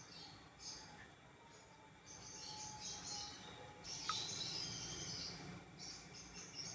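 Budgerigars chattering and warbling in high chirps, busiest in two stretches from about two to six seconds in.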